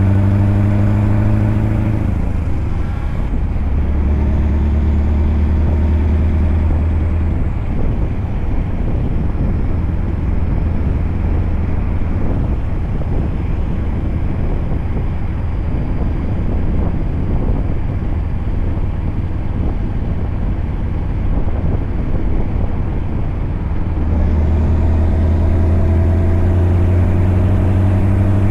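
Scania truck's V8 diesel engine running with a steady low drone. From about 8 seconds in, the clear engine note gives way to a rougher rumble, and the steady drone comes back near the end.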